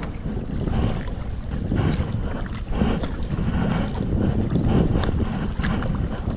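Kayak paddle strokes splashing in the water about once a second, over a steady low rumble of wind buffeting the GoPro microphone.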